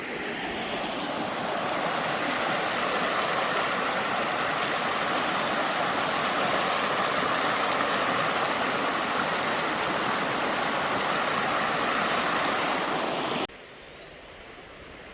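Spring-fed stream flowing, a steady rush of water. Near the end it drops suddenly to a much quieter wash.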